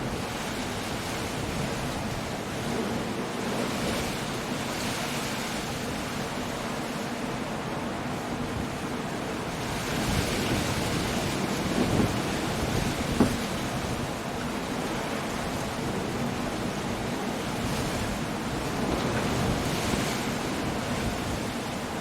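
Stormy sea surf: waves breaking and washing in under steady wind, swelling several times, with two short thumps in the middle.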